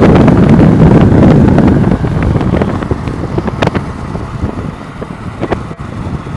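Storm wind gusting hard across the microphone in a loud low rumble that eases about two seconds in, with scattered sharp ticks.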